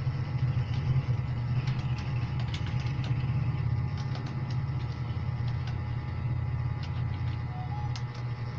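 Computer keyboard keys clicking in an irregular typing pattern, busiest in the first half, over a louder steady low hum.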